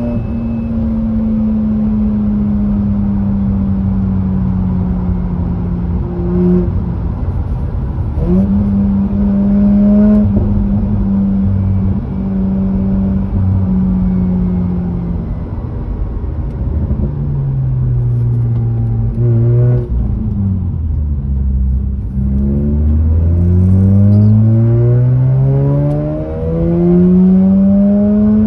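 Mazda RX-8's two-rotor rotary engine, through an aftermarket cat-back exhaust, driven hard on track. The revs hold fairly steady with short dips at gear changes, fall away for several seconds past halfway as the car slows, then climb again through two gears near the end.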